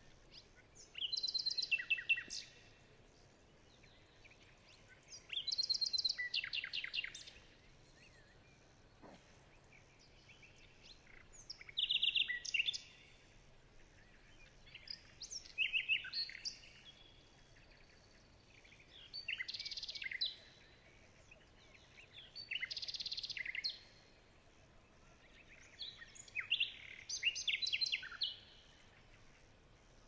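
A songbird singing short phrases of rapid high notes, about one every four seconds, over faint outdoor background noise.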